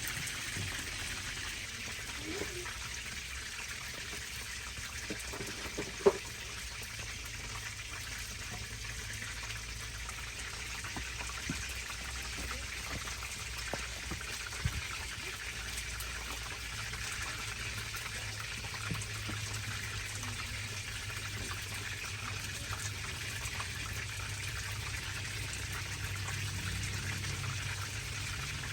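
Water trickling and running steadily, with a single sharp knock about six seconds in.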